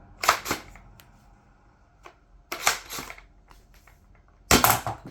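Worker Seagull foam dart blaster being worked and fired in its shotgun mode: three pairs of sharp plastic clacks about two seconds apart, the last pair the loudest. The shotgun-mode burst barely cycles, getting off two darts.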